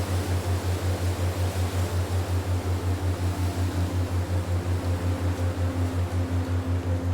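Ambient meditation soundscape: a low hum that pulses evenly about six times a second, over a steady wind-like hiss, with faint held tones above it.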